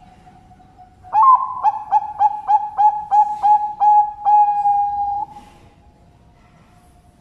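Zebra dove (Bangkok perkutut) cooing: a quick run of about nine short coos, roughly three a second, ending in one longer held coo. The song starts about a second in and stops about five seconds in.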